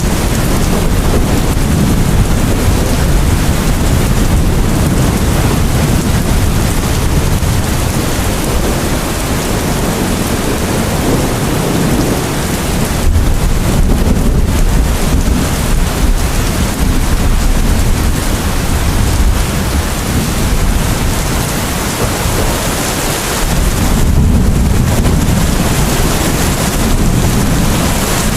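Heavy rain falling steadily, with a deep rumble underneath that swells a little around the middle and again near the end.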